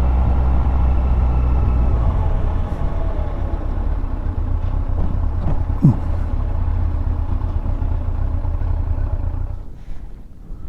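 2001 Yamaha FZS1000's inline-four engine running steadily under way, with a low rumble of wind and road noise. The sound drops markedly in level near the end.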